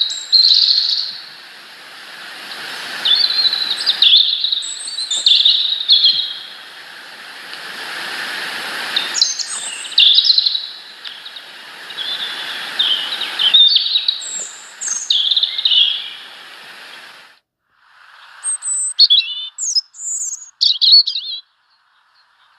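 Small birds chirping: many short, high calls in quick clusters, over a steady hiss that cuts out about three-quarters of the way through, with a few more chirps after it.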